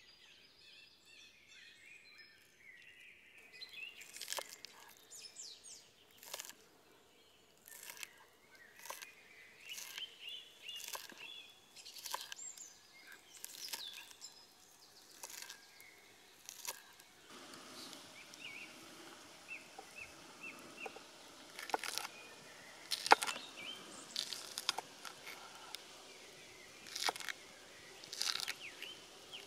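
Chef's knife chopping spring onions on a wooden cutting board: irregular knocks of the blade through the stalks onto the wood, starting a few seconds in. Birds chirp faintly in the background.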